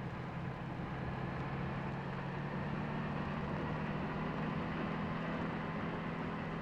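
Expedition truck's engine running at a steady speed on the move, a low even drone with road noise.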